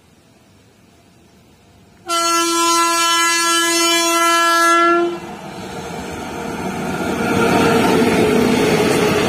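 Indian Railways electric locomotive sounding its horn in one steady blast of about three seconds, starting suddenly about two seconds in. The noise of the passenger train running at speed then grows and peaks as the locomotive and coaches pass close by.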